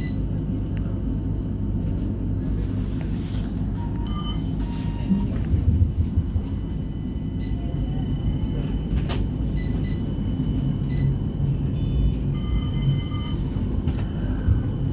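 A West Midlands Metro CAF Urbos 3 tram heard from inside while running between stops: a steady low rumble from the running gear. Brief, faint high-pitched tones come and go several times.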